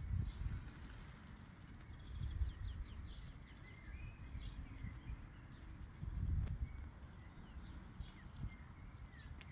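Small birds chirping and calling in scattered short notes over a low outdoor rumble that swells a couple of times.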